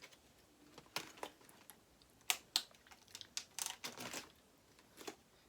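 Scattered light clicks and brief crinkling, a few irregular taps a second, as leftover seafood shells are handled and moved about.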